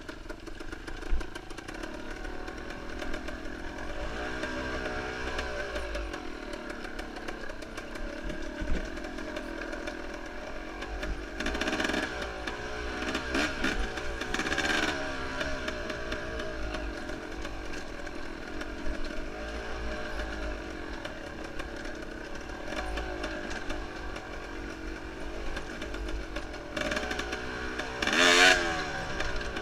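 Enduro motorcycle engine running hard, its revs rising and falling over and over, with occasional knocks and clatter. The loudest bursts of revving come around the middle and near the end.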